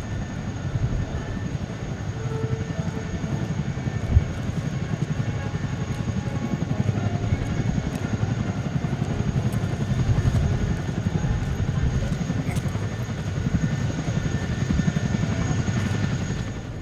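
Twin turbofan jet engines of a Kawasaki EC-1 electronic-warfare aircraft in flight: a steady, low, fluttering rumble.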